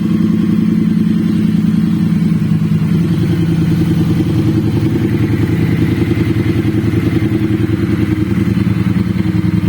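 Triumph Speed Twin 900 parallel-twin engine idling steadily through an aftermarket slip-on exhaust, with a rapid, even, rumbling beat.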